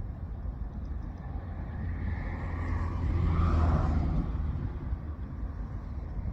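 A motor vehicle passing by: a steady low rumble that swells to a peak about three and a half seconds in, then fades away.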